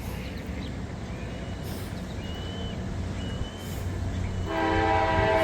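Diesel locomotive air horn sounding a loud held chord that starts about four and a half seconds in, over a steady low rumble.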